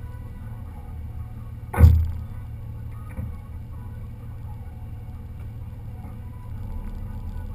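Steady low rumble of a car, with one sharp thump about two seconds in and a smaller knock about a second later.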